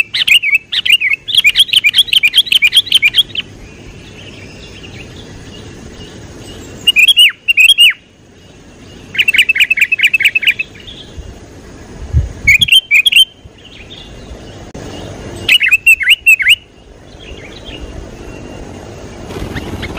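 A bird singing in short, rapid chirping phrases, each lasting one to three seconds, with quieter gaps of a few seconds between them.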